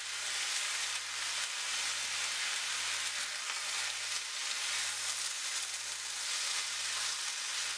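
Steady sizzle of raw banana, long beans and crushed coconut frying in a little oil in a nonstick pan as they are stirred with a wooden spatula.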